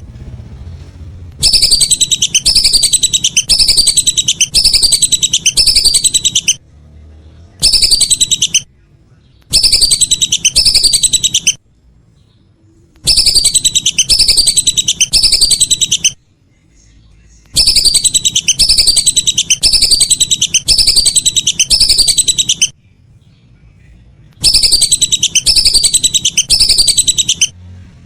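Lesser whistling ducks calling: rapid runs of high, falling whistled notes, in six bouts of one to five seconds separated by short pauses.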